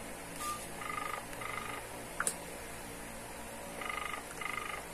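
Ringback tone of an outgoing call on a mobile phone's speakerphone, the call not yet answered: two double rings about three seconds apart, each a pair of short buzzy tones. A brief click a little past two seconds in.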